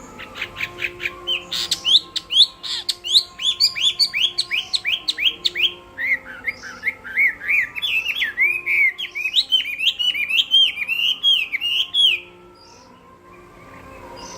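Chinese hwamei (melodious laughingthrush) in full fighting song: a fast run of loud, swooping whistled notes, several a second, after a few short sharp chips. The song stops abruptly near the end.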